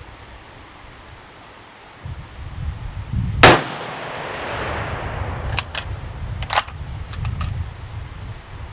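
A single shot from a heavy-build 6.5 Creedmoor bolt-action rifle about three and a half seconds in, its report echoing away over a second or so, followed by a few short metallic clicks of the bolt being worked.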